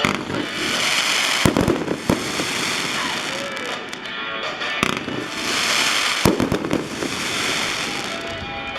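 Fireworks show: several sharp bangs a second or more apart, with music playing.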